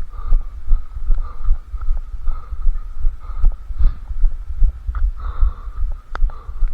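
A runner's footfalls at a steady pace, about three strides a second, heard as low thuds through a head-mounted camera, over a steady hum with scattered small clicks.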